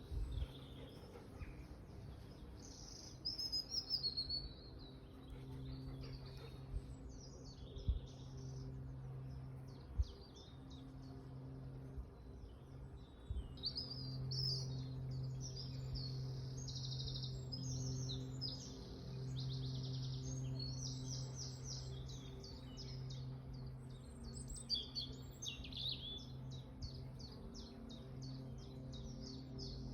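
Outdoor birdsong from several songbirds, with chirps and rapid trills that grow busier about halfway through. A steady low hum runs underneath, and there are a few brief low thumps early on.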